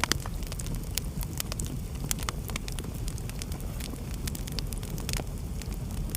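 Wood fire burning in a fireplace: irregular sharp crackles and pops over a steady low rumble of the flames, with a louder pop at the start.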